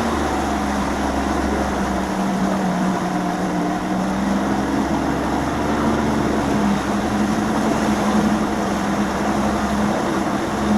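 Bass boat's outboard motor running steadily under way, with a steady rush of noise over its low drone.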